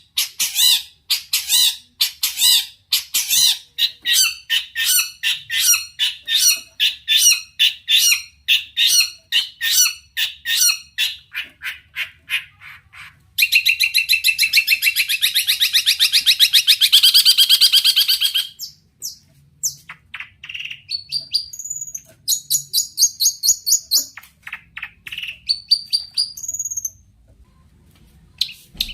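Long-tailed shrike singing loudly. First comes a long run of harsh repeated calls, about two or three a second. Then a rapid chattering trill lasts about five seconds, followed by varied chirps and short whistles, and the song breaks off near the end.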